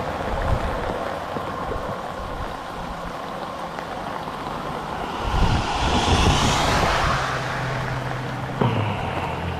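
Stormy wind buffeting the microphone over steady rain and water noise, swelling louder for a couple of seconds about halfway through, with a low steady hum toward the end and one sharp knock shortly before it ends.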